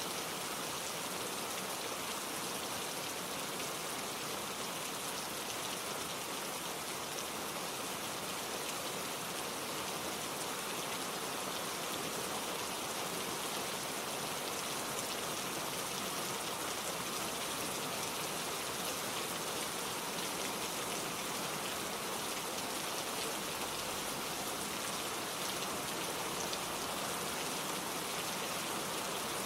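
Steady gentle rain falling and pattering on surfaces, an even hiss with fine drop ticks and no thunder.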